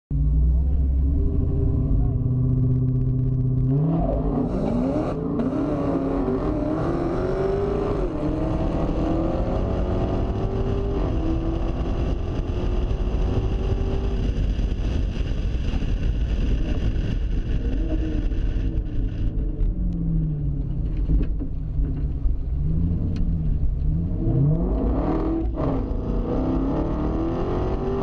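V8 muscle-car engine heard from inside the car, running at low steady revs and then going to full throttle about four seconds in for a dig race. The pitch climbs and drops back at each gear change. Later the revs rise and fall several times.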